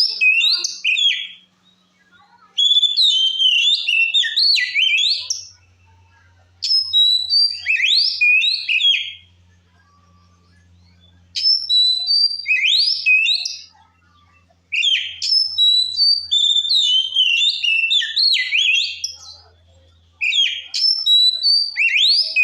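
Oriental magpie-robin (kacer) in full, open 'ngeplong' song: loud phrases of varied whistles and quick rising sweeps, about six bursts of two to four seconds each, separated by short pauses.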